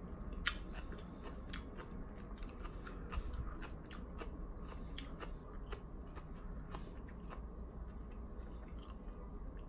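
A person chewing a mouthful of shredded cabbage salad, with small irregular crunches and wet clicks.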